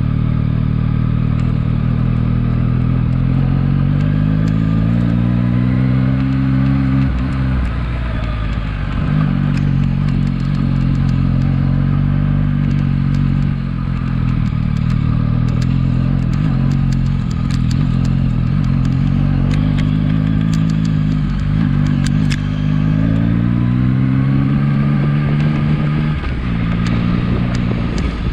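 2023 Yamaha MT-09's three-cylinder engine running on the move: the pitch rises twice as it revs up and drops sharply each time, with steady running in between.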